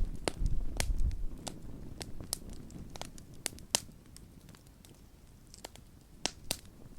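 Wood fire crackling: irregular sharp pops, with a low rumble in the first second or so that fades away.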